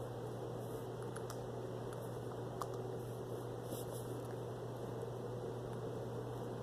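Quiet room tone: a steady low hum and hiss, with a few faint, short clicks.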